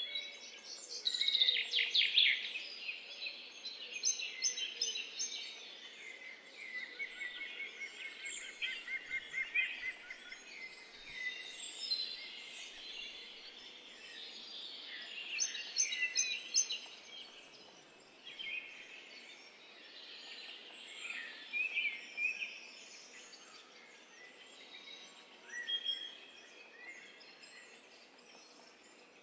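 Songbirds chirping and singing, several calls overlapping, with bursts of rapid, evenly repeated trill notes; the loudest burst comes about a second or two in.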